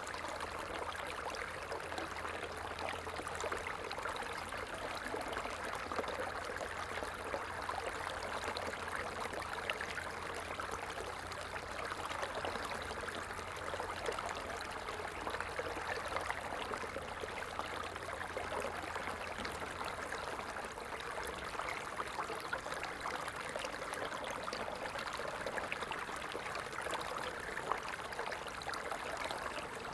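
Small stream flowing: a steady, even burble and trickle of running water with many small ticks and splashes.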